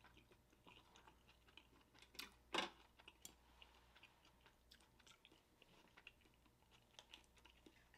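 Faint close-up chewing of a steamed dumpling: soft, scattered wet mouth clicks, with a slightly louder couple of chews about two and a half seconds in.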